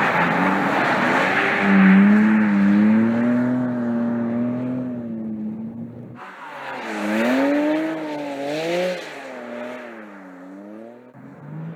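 Porsche 718 Cayman GT4 RS's 4.0-litre naturally aspirated flat-six running, its pitch rising and then holding. About six seconds in the sound changes abruptly to the engine revving up and down several times.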